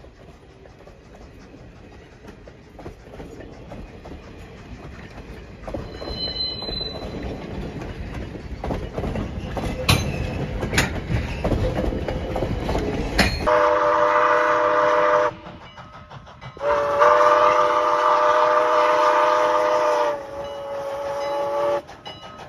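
Wooden passenger cars rolling past on jointed track, the wheel noise building with a few sharp clicks. About halfway through, this gives way to the chime steam whistle of Canadian National 89: a short blast, then a longer one, then a fainter tone.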